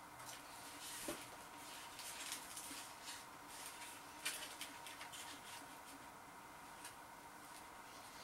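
Faint eating sounds: a mouthful of battered fish and chips being chewed, with small scattered clicks and light rustling from the paper cone in hand.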